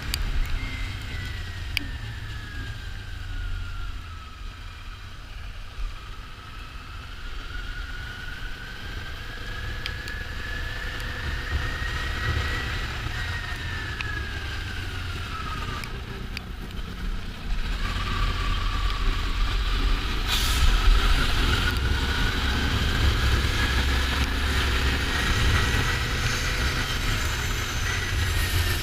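Kawasaki Ninja 400's parallel-twin engine running under way, its pitch slowly falling, rising and falling again as the bike slows and accelerates. Wind rumble on the microphone grows louder in the second half.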